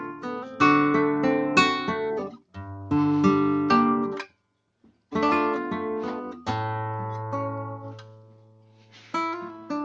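Kremona S65C nylon-string classical guitar played fingerstyle, in phrases of plucked chords and melody notes. A little before the middle it stops briefly. Then a low bass note is left ringing and dying away before the playing picks up again near the end.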